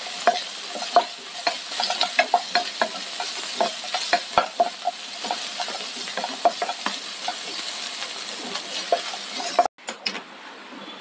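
Sliced onions, green chillies and curry leaves sizzling in hot oil in a nonstick kadai as they are sautéed, stirred with a wooden spatula whose strokes click against the pan many times. Near the end the sizzle drops away abruptly and becomes much quieter.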